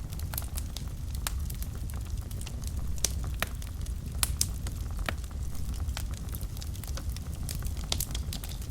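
A fire burning in a fireplace, crackling: irregular sharp pops, several a second, over a steady low rumble of the flames. A few louder snaps come near the middle and near the end.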